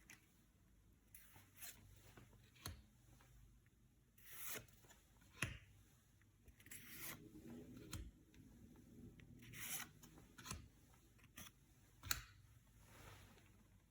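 Faint handling of trading-card packaging and cards: scattered light clicks and a few brief rustles and swishes of card stock and foil wrapping.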